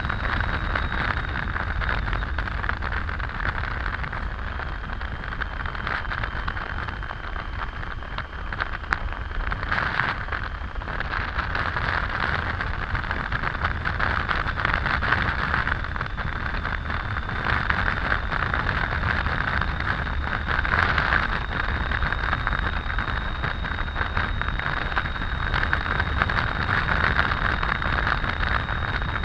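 Triumph Tiger 800 inline-triple motorcycle being ridden, wind rush and road noise over a steady engine drone, with a faint steady high-pitched whine.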